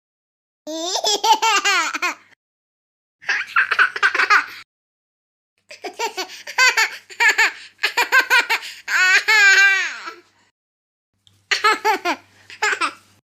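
A run of five short comedy laughter sound effects, each a high-pitched, wavering laugh lasting one to two and a half seconds, cut off abruptly with dead silence between them.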